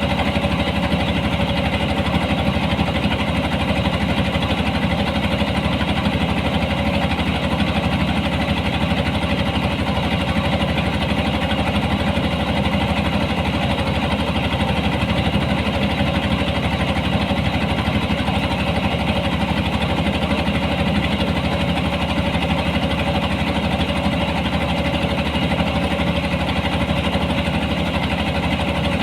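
A harvesting machine's engine running steadily at an even speed, with no change in pitch or load.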